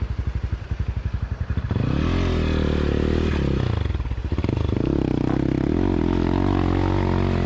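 A 250 cc dirt bike engine loping at low revs, then opening up about two seconds in and revving hard in gear. The pitch wavers up and down, with a short drop about four seconds in.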